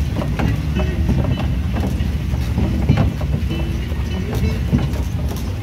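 Slow-moving tourist train riding through a forest: a steady low rumble with irregular rattles and knocks from the carriage.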